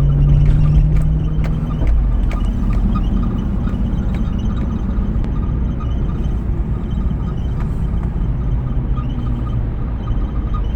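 2008 Jeep Grand Cherokee SRT8's 6.1-litre Hemi V8 on the move: a steady engine note for about the first two seconds, then a steady low road rumble.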